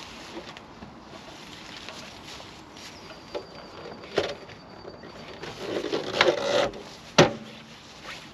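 A few scattered knocks and a short spell of rustling and clattering, with one sharp knock near the end as the loudest sound.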